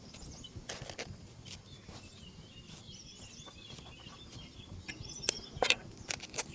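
Faint bird chirping mixed with scattered sharp clicks and knocks, which come thicker and louder in the last second and a half.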